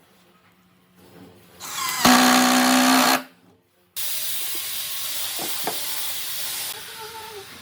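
A hand-held power tool's motor spins up, whines at full speed for about a second and stops. After a short gap a steady, loud hiss starts abruptly and fades somewhat near the end.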